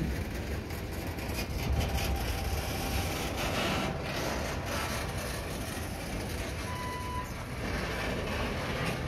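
Loaded stone hopper cars rolling past on jointed track, a steady rumble of steel wheels with repeated clacks. A short squeal comes about seven seconds in.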